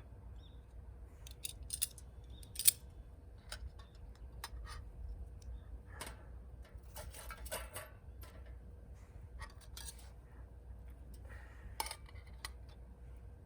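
Burning wood in a wood gas stove crackling, with scattered sharp pops and clicks at uneven intervals; the loudest pop comes a little under three seconds in, and a short rustling crackle follows about seven seconds in.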